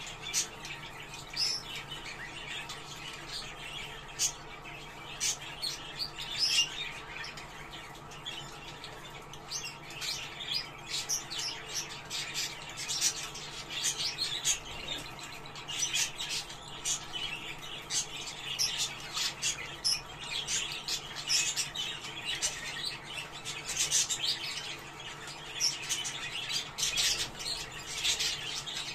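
Budgerigars chattering: many quick high chirps and squawks overlapping in a busy, irregular warble. This is the kind of budgie chatter played to bring budgerigars into breeding condition.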